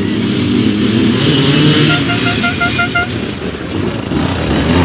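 Dirt bike engine running under load on a climb, with a quick run of about six short, high horn-like beeps about halfway through.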